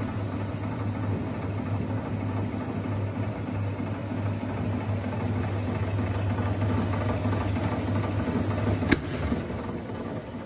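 Sveba Dahlen MP080 spiral mixer running steadily, a motor hum with mechanical whirring. A single sharp click comes near the end, after which the sound begins to die down.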